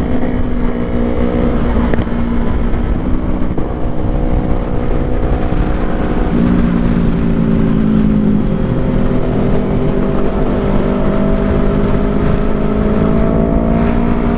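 A motor vehicle engine running steadily, its pitch slowly rising and falling, over a dense low rumble.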